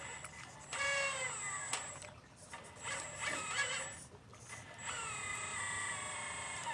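Motor whine of an RC model excavator working, in three bursts as its controls are moved, with the pitch sliding down within each burst and a steady very high electronic whine while the motor runs.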